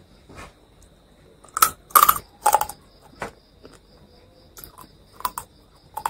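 A person chewing crunchy fried food close to the microphone: a burst of sharp crunches about a second and a half in, then quieter scattered crunching clicks near the end.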